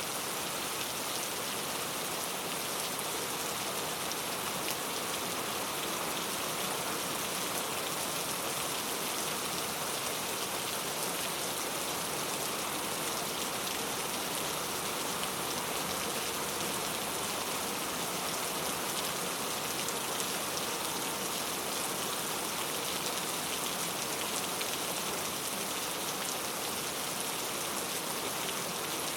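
Steady heavy rain falling, a constant even hiss of drops hitting surfaces, with no break or change.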